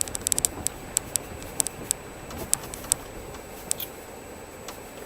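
Car rolling slowly over a freshly laid crushed-stone road surface, small stones crackling and pinging under the tyres over a low steady rumble; the clicks thin out and stop near the end.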